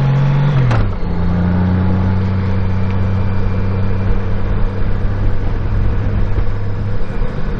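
A 2015 Honda Gold Wing F6B's flat-six engine running on the road under steady wind and road noise. About a second in, its pitch drops sharply as the revs fall, with a brief click. It then runs steady at the lower revs.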